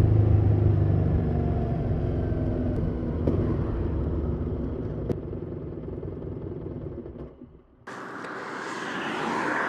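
Harley-Davidson Street 750's V-twin engine and exhaust running while riding, the note steady but getting gradually quieter. About eight seconds in it cuts off abruptly and a rising hiss takes over.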